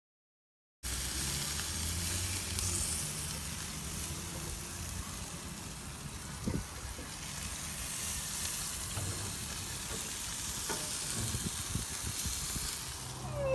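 Food sizzling as it cooks: a steady crackling hiss with a low hum underneath. It starts abruptly about a second in.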